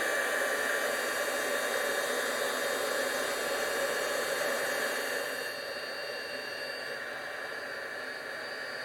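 Craft heat-embossing gun blowing steadily with a faint fan whine, melting embossing enamel. The hiss softens a little about five and a half seconds in.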